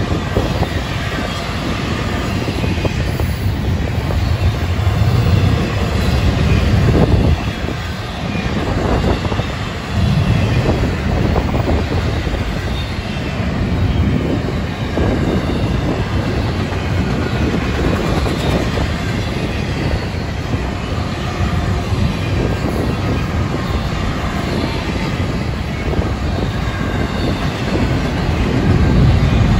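Double-stack intermodal freight train rolling past: steady rumble of steel wheels on rail from the loaded container well cars, with occasional clunks.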